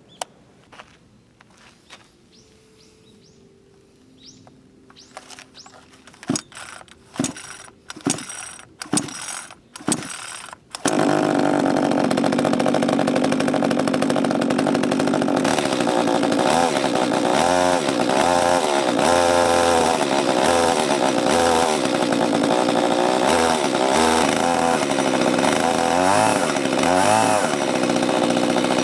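Makita ME230T two-stroke chainsaw being started: a series of short bursts as it is pulled over, then about eleven seconds in the engine catches and keeps running, its speed rising and falling again and again.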